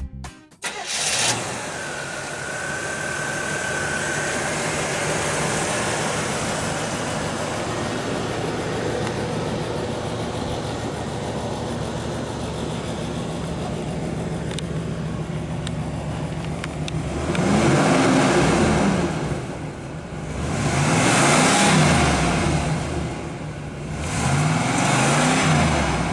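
The Malibu's original 350 cubic-inch V8 with a two-barrel carburettor starts about a second in and settles into a steady idle. It is then revved three times near the end, each rev rising and falling back to idle.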